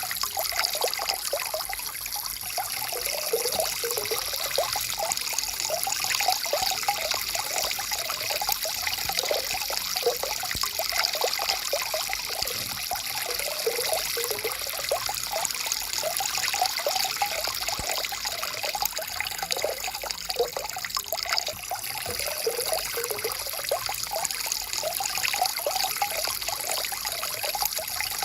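Small stream flowing steadily over stones: an even rush of water with constant small bubbling and gurgling notes.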